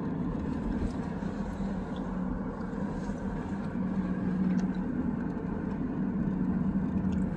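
Car driving, heard from inside the cabin: steady road and tyre noise under a constant low hum.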